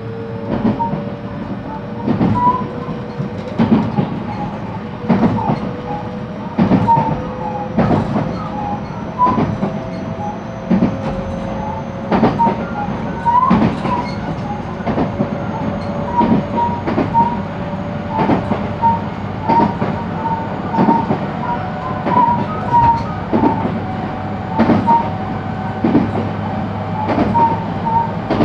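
JR West 223 series electric train running: the inverter and traction motor whine climbs slowly in pitch as it gathers speed. The wheels clack over rail joints about every second and a half.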